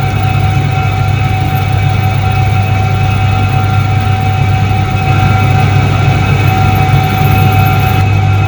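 A 1978 Soviet Iset-3 washing machine running: a steady motor hum with a constant higher tone over a churning wash noise, a little louder from about five seconds in.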